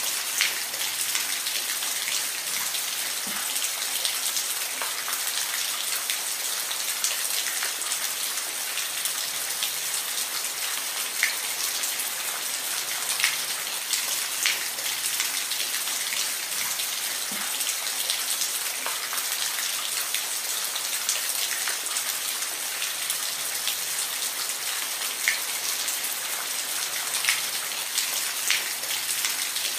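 Steady rain falling on a surface, a dense even hiss with individual drops ticking through it now and then.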